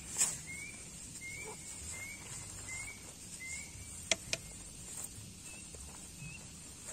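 A bird repeats a short rising chirp about twice a second, then calls twice more, fainter, near the end. A few sharp clicks come from gear being handled: the loudest just after the start, and two close together about four seconds in.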